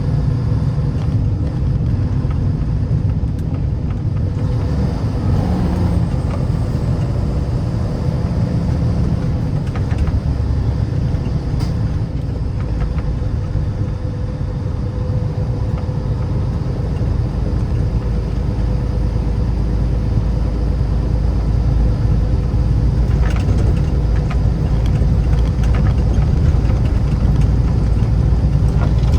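Steady low rumble of a car on the move, engine and road noise together, with a faint steady hum; it grows slightly louder over the last few seconds.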